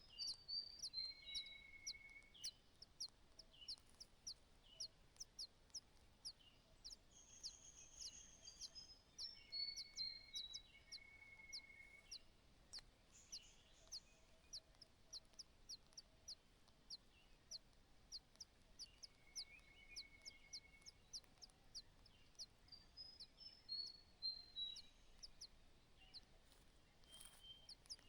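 Birds calling, faint: one bird repeats a short, sharp, high call about twice a second throughout, while others give occasional short runs of descending whistled notes.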